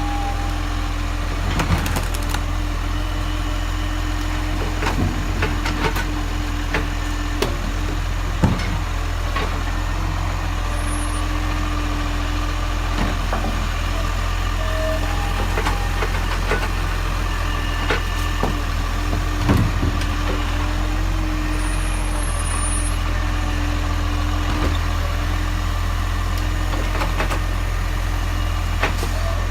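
Garbage truck engine running steadily, with a few sharp knocks and clatters now and then.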